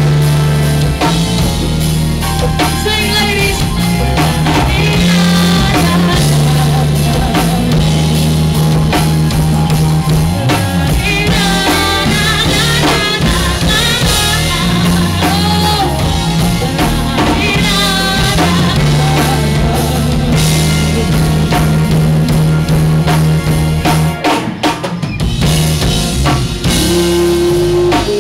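Loud live rock band playing, with a full drum kit and a sustained bass line, and a wavering lead line over it in stretches. The band drops out briefly near the end.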